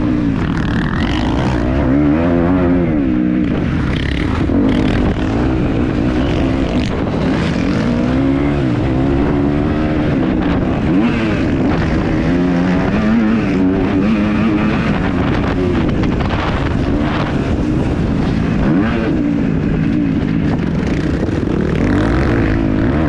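Kawasaki KX250F single-cylinder four-stroke motocross engine ridden hard, its revs climbing and dropping again every couple of seconds as the throttle is opened and shut.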